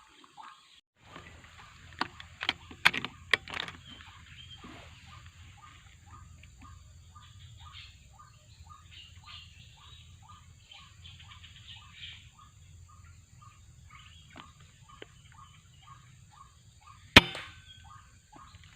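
White-breasted waterhen calls repeated in a steady series, about two a second. There are a few sharp clicks about two to three seconds in, and one loud sharp crack near the end.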